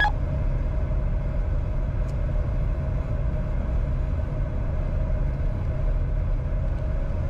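Steady cockpit noise of a Bombardier Challenger 605 in flight on final approach: an even, low rumble of airflow and engines with a faint steady hum. A short electronic beep sounds at the very start.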